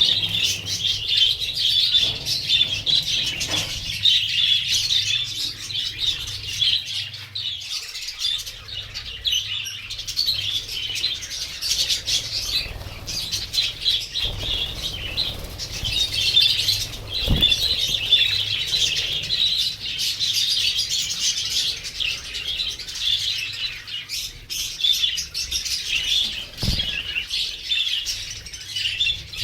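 A large flock of budgerigars chattering and warbling continuously, many birds at once, with two dull thumps about two-thirds of the way in and near the end.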